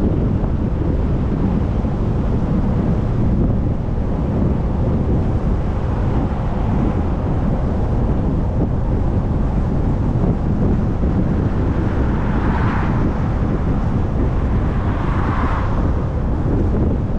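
A vehicle driving: a steady low rumble of road and wind noise, with two brief swells of hiss about twelve and fifteen seconds in.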